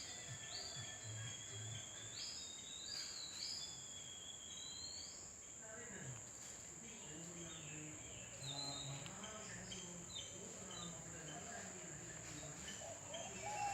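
Steady high-pitched drone of insects, likely crickets or cicadas, with several short rising whistled bird calls in the first few seconds. Faint low voice-like sounds follow in the middle.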